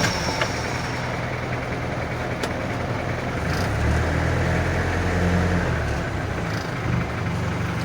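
1984 Toyota Land Cruiser's diesel engine idling steadily just after a cold start on heated glow plugs, growing slightly louder for a couple of seconds in the middle.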